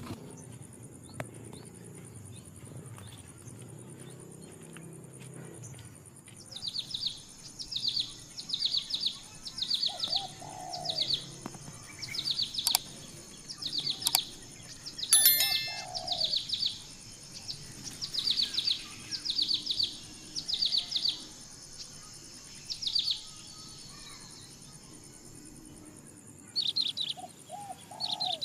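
Bird chirping in repeated short groups of quick descending notes, about one group a second, with a few brief lower calls among them, over a steady high insect drone.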